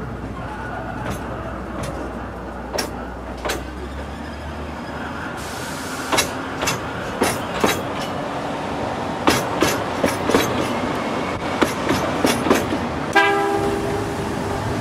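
Ōigawa Railway Ikawa Line passenger train running, heard from aboard: a steady running noise with irregular sharp clicks of the wheels over the rail joints. Near the end the train's horn sounds a held note.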